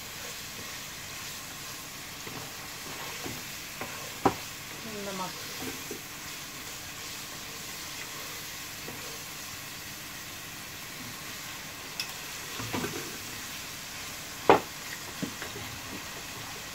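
Minced chicken frying in a non-stick wok with a steady sizzle, a wooden spatula stirring and scraping through it. A few sharp knocks of utensils on the pan, the loudest one near the end.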